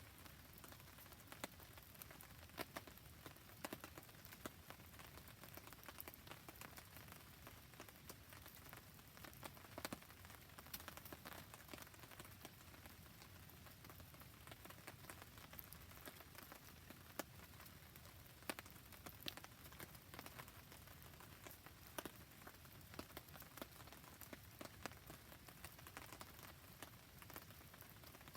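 Faint steady rain, with many irregular sharp drips and pops throughout, mixed with a campfire crackling.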